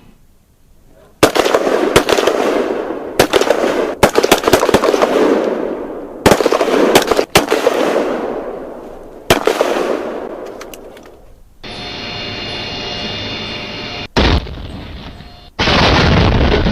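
Military gunfire sound effects: bursts of rapid automatic shots, each cluster of cracks trailing off in a long echoing tail. Near the end a different, duller-sounding recording takes over, with a steady rumble and more loud shots.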